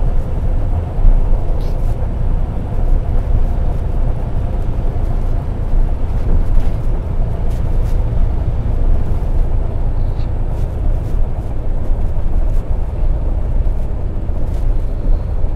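Semi truck's diesel engine and road noise heard from inside the cab while driving: a steady low rumble with a faint hum above it.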